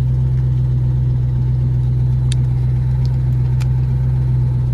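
Straight-piped New Edge Ford Mustang GT's 4.6-litre two-valve V8 running steadily at an even engine speed, a loud, constant low exhaust note. The owner says the exhaust has a big leak.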